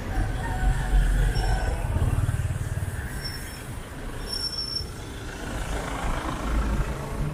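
Street traffic: vehicle engines and tyres passing close by in a continuous low rumble that swells and fades, with a few short high squeaks.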